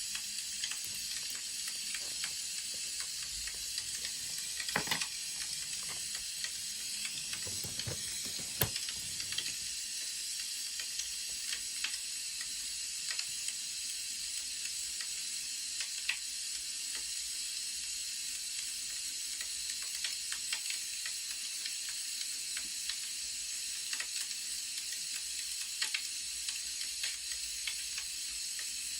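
Wood fire crackling: a steady hiss with scattered pops and snaps, with a few louder snaps and a short rustle about five and eight seconds in.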